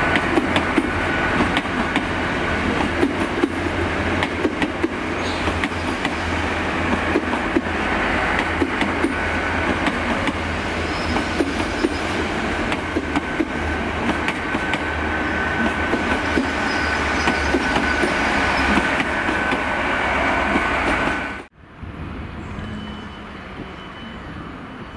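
A GWR passenger train running past close by, its wheels clicking rapidly over the rail joints, with a steady high whine throughout. The sound cuts off abruptly about 21 seconds in, leaving a much quieter, distant rumble of railway sound.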